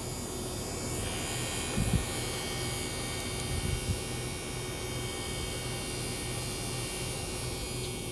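Washing machine running with a steady motor hum and buzz, with a brief low thump about two seconds in.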